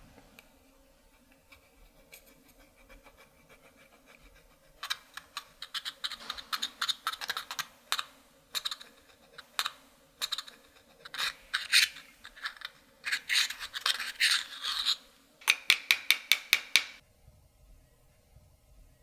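Pressed eyeshadow being scraped and crumbled out of its pan with a hard tool: runs of quick, dry scratching strokes with short pauses between them. The scraping begins about five seconds in, is loudest in a final burst, and stops a couple of seconds before the end.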